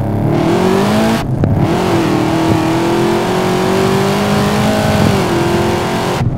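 Supercharged 6.0-litre iron-block LY6 V8 of a Holden VF Commodore SSV at full throttle, heard from inside the cabin, with the engine note climbing under hard acceleration. There is a quick short-shifted gear change about a second in, then it pulls on, and the throttle is shut just before the end.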